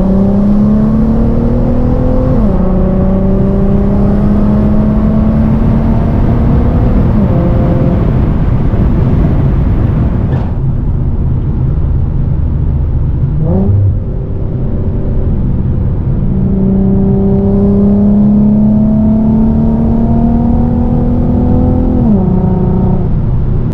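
Infiniti G37's naturally aspirated 3.7-litre V6 accelerating hard through the gears, heard from inside the cabin with the windows up: the engine note climbs steadily, then drops sharply at each upshift, three times. About halfway there is a stretch of steady running and a quick rev blip.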